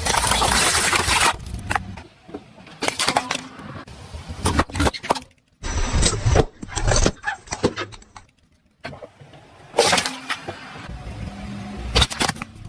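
A car rolling over objects: engine and tyre noise in several loud bursts, cut together from separate short clips.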